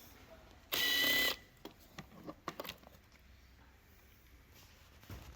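A small power tool whirs in one short burst of about half a second, about a second in, followed by a few light clicks and rattles of parts being handled.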